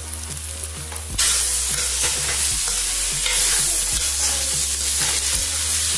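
Mushroom Manchurian sizzling as it is stir-fried in a metal kadai and turned with a wire skimmer. About a second in the sizzle becomes suddenly much louder and stays loud.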